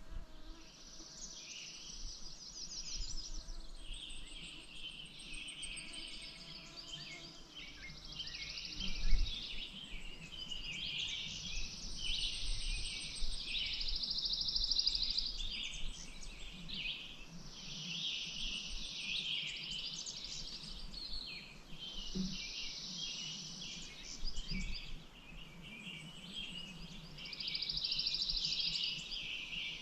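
Several songbirds singing at once: a dense chorus of chirps and trilled phrases that repeat every couple of seconds. A brief low thump comes about nine seconds in.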